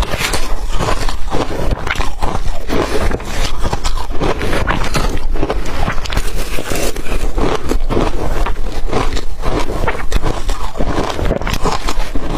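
Close-miked crunching of blender-crushed ice as it is bitten and chewed: a dense, continuous crackle of many rapid small cracks.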